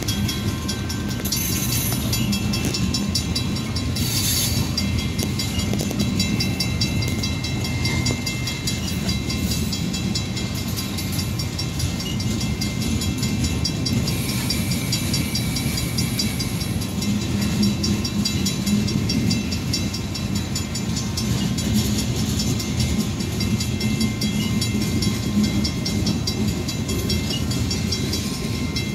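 Freight train of loaded coal cars rolling steadily past a grade crossing: a continuous low rumble of steel wheels on the rails, with a fine regular ticking from the wheels and cars.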